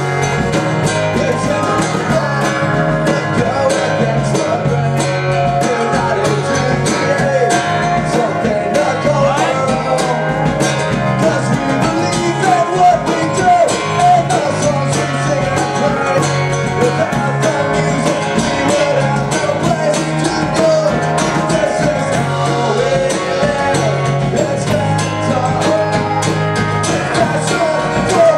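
Live acoustic rock band performance: strummed guitars with a singing voice over a steady bass line.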